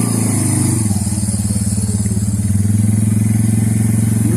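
Suzuki Eiger 400 ATV's single-cylinder four-stroke engine running steadily under throttle.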